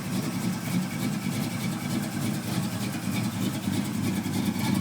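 Chevrolet small-block 350 V8 idling steadily through dual exhaust with 40 series Flowmaster mufflers.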